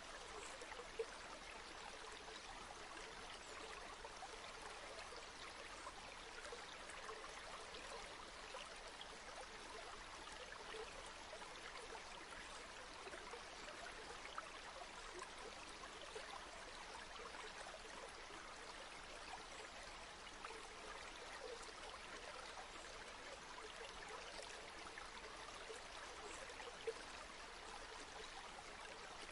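Flowing river: a faint, steady rush and babble of running water, with a couple of brief louder spots, one about a second in and one near the end.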